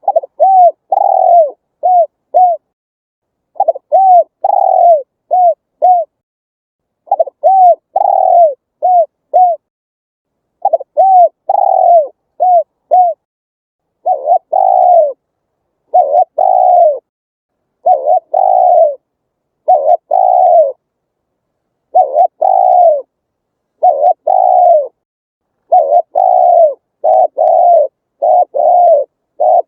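Spotted dove cooing repeatedly in phrases of several coos with short pauses between them. The coos in the second half are longer and come closer together.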